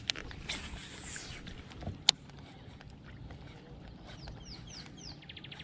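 Quiet open-water ambience with a few sharp clicks. Near the end, a bird gives a run of short falling chirps that ends in a quick trill.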